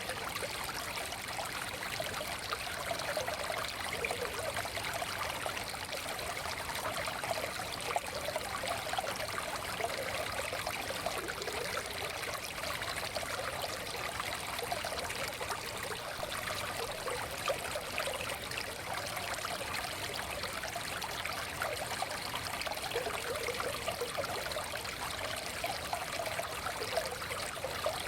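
Small forest stream flowing and trickling steadily over stones, with a constant babble of water.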